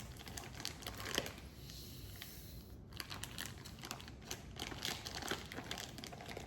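Plastic icing bag crinkling in the hands as it is squeezed: a run of small, irregular crackles.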